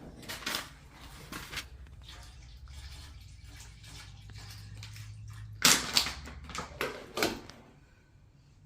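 Water splashing and sloshing, with handling clicks, and the loudest splashy bursts about six and seven seconds in.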